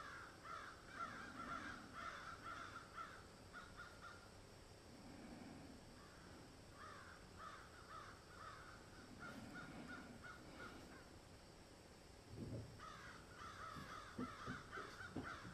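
Faint ambience of crows cawing in three bouts of quick repeated calls, with a few soft knocks near the end.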